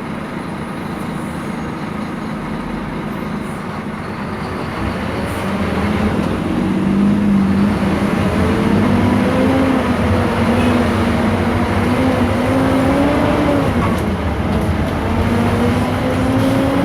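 Scania K230 city bus with a ZF automatic gearbox under way and accelerating. The loudness rises about six seconds in, and a whining drive note climbs steadily, drops about fourteen seconds in at a gear change, then climbs again.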